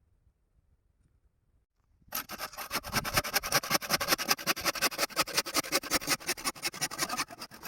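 Bamboo being sawn through: rapid back-and-forth rasping strokes of a saw that start about two seconds in and keep going.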